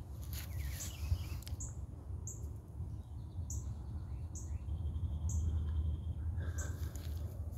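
A bird chirping repeatedly: short high notes about once a second, over a steady low rumble.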